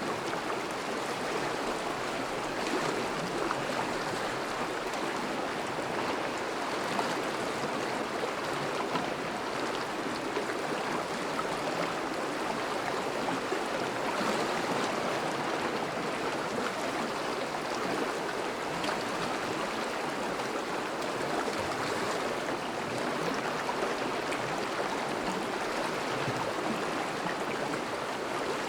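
Thawing river flowing steadily over and around breaking ice: an even rush of moving water without pauses.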